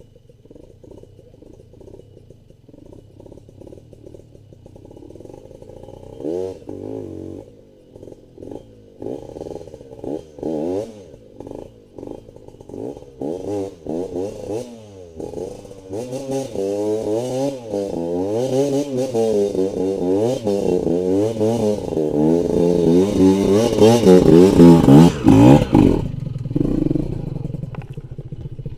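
Trail motorcycle engine revving up and down over and over in quick throttle blips. It grows much louder over the second half, then drops off sharply near the end.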